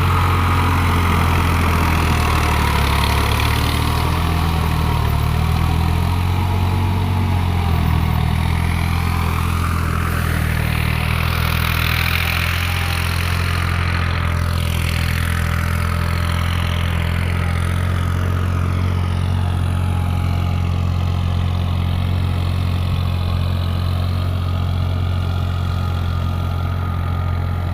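New Holland TT55 tractor's diesel engine running steadily at an even, unchanging speed.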